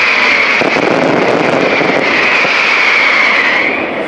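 Fireworks ground effects, crackling stars and fountains, burning together as a continuous hissing rush that wavers in pitch and eases off near the end.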